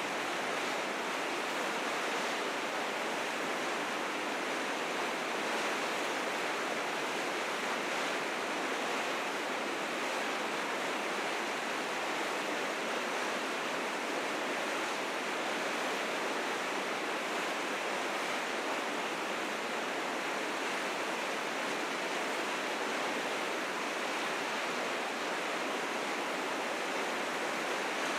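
River rapids rushing in a steady, unbroken roar of white water, swollen with spring snowmelt.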